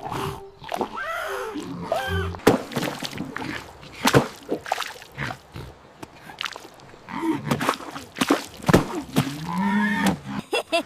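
Cartoon animal cries and squeals with pitch bending up and down, mixed with many sharp knocks and hits.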